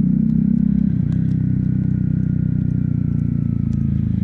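Motorcycle engine running steadily on the move, its note easing slightly lower over a few seconds.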